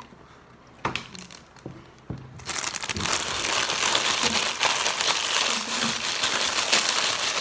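Ruffles potato chip bag being handled and crinkled close to the microphone. A few soft knocks, then loud continuous crinkling starts about two and a half seconds in.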